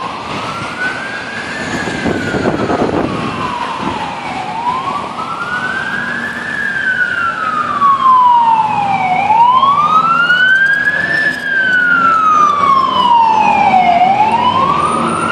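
Fire truck siren on a slow wail, its pitch rising and falling in long sweeps about every five seconds. The truck's engine rumbles steadily underneath.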